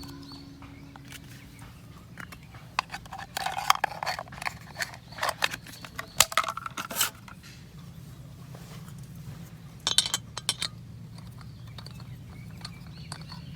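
Scattered clinks, taps and light clatter of small hard objects being handled, such as camp gear or cookware, in bunches with pauses between, over a steady low hum.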